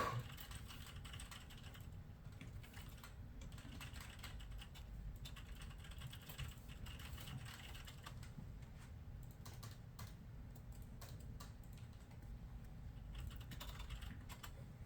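Computer keyboard typing in irregular runs of keystrokes, over a steady low hum. A brief louder sound comes right at the start.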